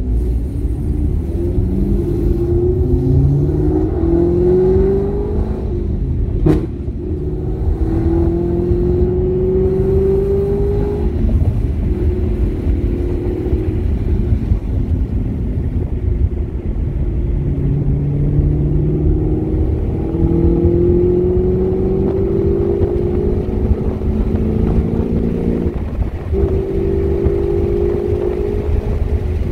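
Chevrolet Camaro ZL1 1LE's supercharged 6.2-litre LT4 V8 heard from inside the cabin, accelerating from pit-lane speed through the gears. Its pitch rises several times, breaking off at each upshift, over a steady low rumble of road and wind noise. There is one sharp click about six and a half seconds in.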